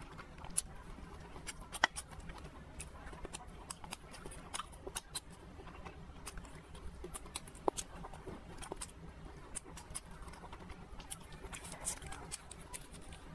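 Close-miked eating: soft chewing and small wet mouth clicks as a mouthful of spicy mala ban noodles and shrimp is eaten, with scattered light ticks.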